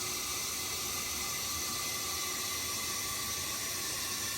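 Hot tap water running steadily through a fill hose into a washing machine's tub as it fills, an even hiss.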